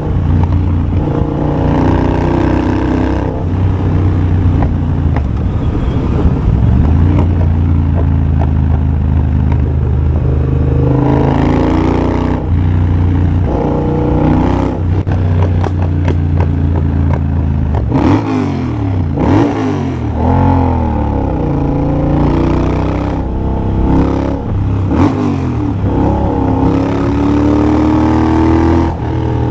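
2023 Triumph Bobber's 1200 cc parallel-twin engine, de-catted with an X-pipe and a Motone Shorty exhaust, running under way. Steady stretches are broken by repeated rises and falls in revs as the rider accelerates and rolls off, busiest about two-thirds of the way in.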